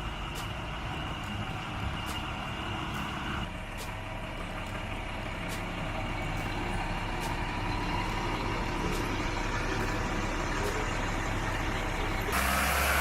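A heavy engine runs steadily. About a second before the end, a louder rushing hiss comes in suddenly on top of it.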